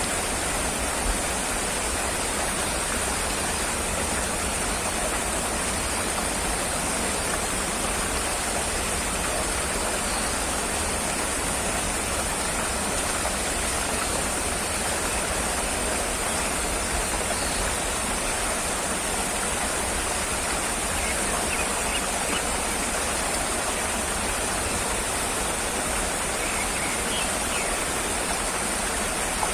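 Steady rushing water noise, even and unchanging, with a few faint high chirps in the last third.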